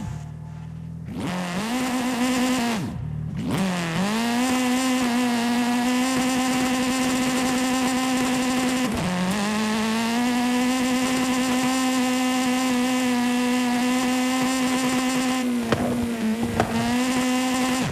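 Simulated car engine sound from a driving video game: the engine pitch drops and climbs again a few times, as with shifting or lifting off the throttle, then holds steady at speed. A couple of brief clicks come near the end.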